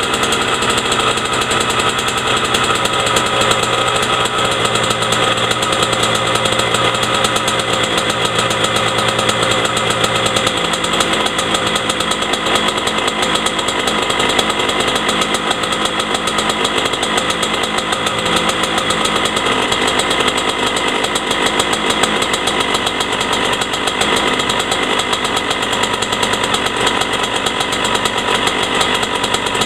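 2000 Honda CR125's single-cylinder two-stroke engine running steadily through a Doma aftermarket exhaust while warming up.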